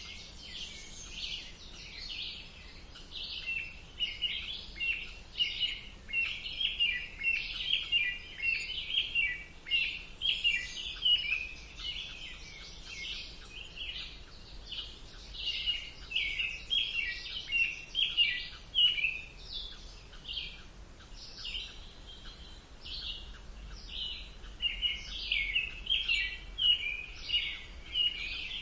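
Songbirds singing and chirping in a wood, many short overlapping calls and trills in quick succession, over a faint low background noise.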